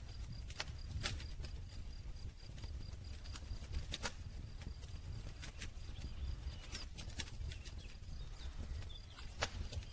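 Wood campfire crackling: irregular sharp pops and snaps from the burning logs over a steady low rumble of the flames, with a louder pop about nine and a half seconds in.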